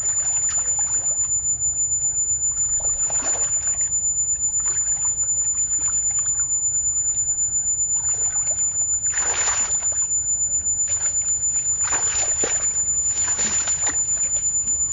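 Water splashing and sloshing, with louder splashes about three, nine, twelve and thirteen seconds in, over a steady low hum.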